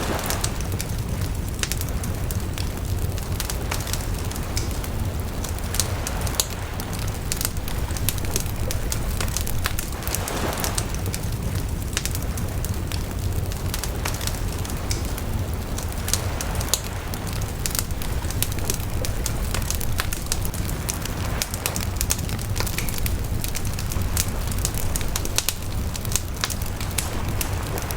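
Wood bonfire crackling, with frequent sharp pops and snaps of burning wood over a steady low rumble of flame, and an occasional soft swell of hiss.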